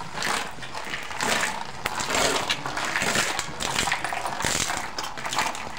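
Irregular rustling and crunching as a calf suckles at a cow's teats, pulling to bring down the milk before hand milking.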